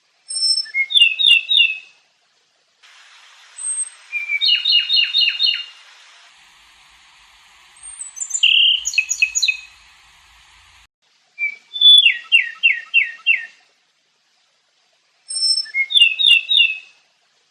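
A songbird singing short, loud phrases, each a quick run of four or five sharp repeated notes with a high thin note at the start. There are about five phrases a few seconds apart, with pauses between them.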